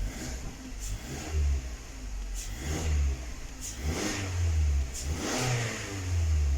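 A 2019 Mazda 6's four-cylinder direct-injection (GDI) petrol engine running roughly, its sound swelling and dropping unevenly several times. This is the stumble of a random multi-cylinder misfire, which the mechanic blames most likely on the fuel injectors.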